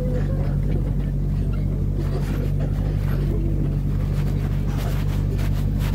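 An engine running steadily at an even speed, its low hum unchanging, with faint voices in the background.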